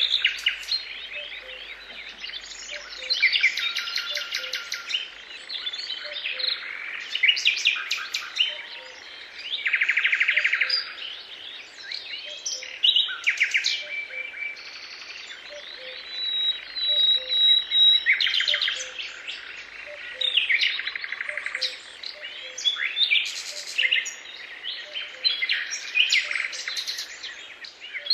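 Several songbirds singing at once, a dense chorus of overlapping chirps and trills with no pause.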